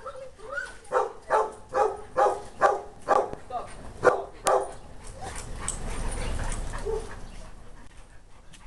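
A dog whimpers briefly, then barks in a quick run of about nine barks, a little over two a second. A low rumbling noise follows for about two seconds.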